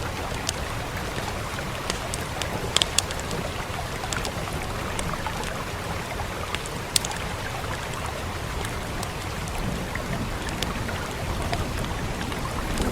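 Fire crackling with scattered sharp pops over a steady rush of rain; a few louder pops come about three seconds in and one about seven seconds in.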